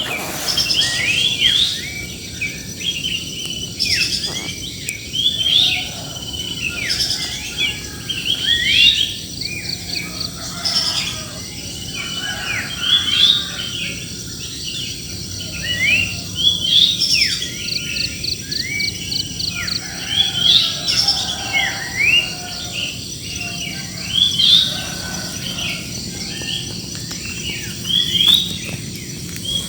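Many small birds chirping and calling over one another in a busy chorus of short, quick up-and-down chirps. A rapid ticking trill breaks in a few times.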